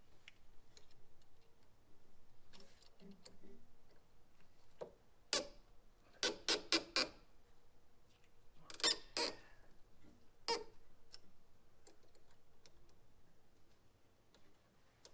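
Sharp metallic clicks and clinks of hand tools and parts being handled while the engine is taken apart. They come in small groups: one about five seconds in, four quick ones just after, two or three more around nine seconds, and a last one about ten and a half seconds in.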